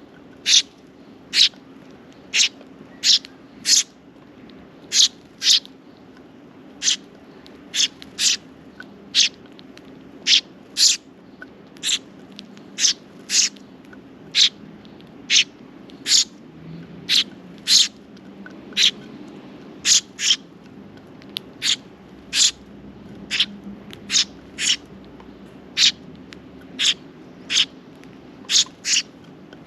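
Sparrow chirping over and over: single short, high cheeps at an uneven pace of about one or two a second, with a faint low hum underneath.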